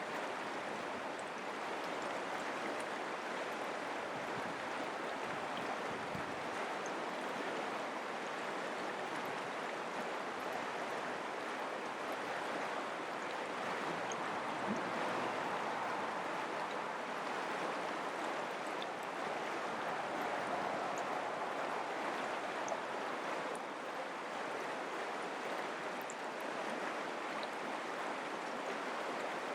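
Mountain creek flowing, a steady, even rush of running water.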